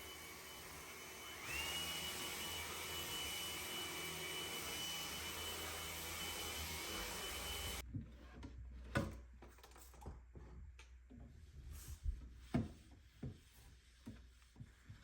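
An electric appliance motor running with a steady noisy hum. About a second and a half in it speeds up, with a whine that rises and then holds steady, and it stops abruptly about eight seconds in. Scattered light knocks and clicks of objects being handled follow.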